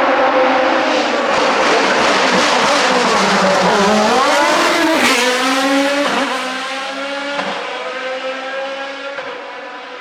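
Racing car engine at high revs on a hillclimb course. Its pitch dips and climbs back around the middle, shifts abruptly about halfway through, then the engine grows fainter.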